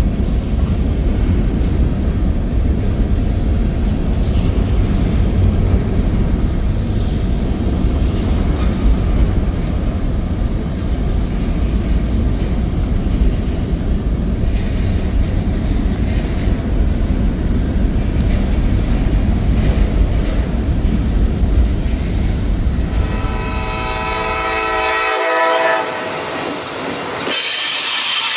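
Freight train hopper cars rolling past close by: a steady heavy rumble of wheels on rail. Near the end a train horn sounds for two or three seconds.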